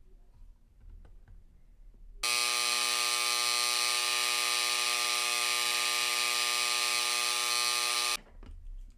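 Dremel electric engraver buzzing steadily for about six seconds as it rebeads over freshly set pavé stones, starting abruptly a couple of seconds in and cutting off sharply.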